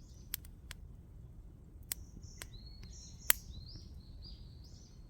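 Small birds chirping in short high notes, joined by several sharp clicks, the loudest a little past three seconds in, over a steady low background rumble.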